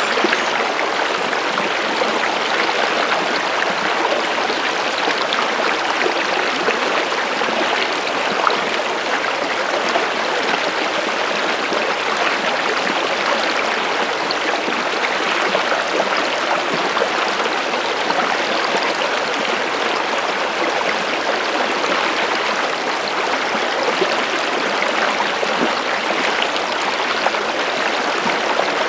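Stream water running and babbling steadily, an even rushing with fine splashy detail and no let-up.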